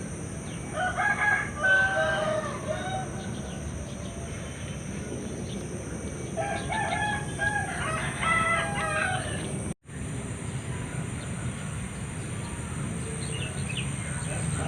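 A rooster crowing twice, each crow lasting about two seconds, the second about five seconds after the first.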